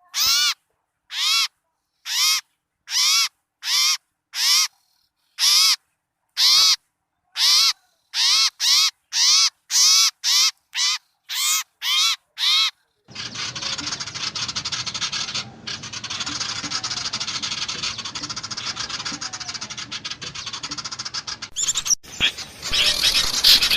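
Bird-luring recording of small birds: for about the first half, one bird gives a harsh, nasal call over and over, roughly one to two calls a second. Then it cuts suddenly to a dense, continuous chatter of many small birds calling at once, which grows louder near the end.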